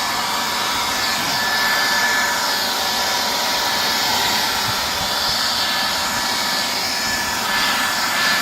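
Handheld blower running steadily, blowing water off a truck's body: a rush of air with a steady motor whine. It is not a very powerful blower.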